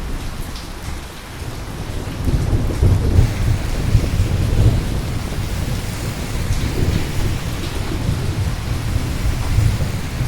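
Steady rain falling, with a long low rumble of thunder that swells about two seconds in, peaks soon after and rolls on to the end.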